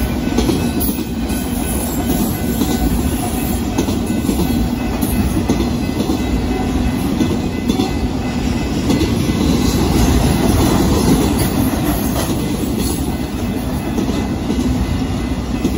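Autorack freight cars of a passing auto train rolling by close to the track: a steady rumble of steel wheels on the rails with scattered clicks over the rail joints.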